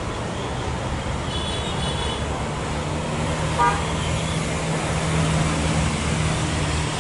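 Steady road traffic noise with a low hum that swells slightly, and one short horn toot about three and a half seconds in.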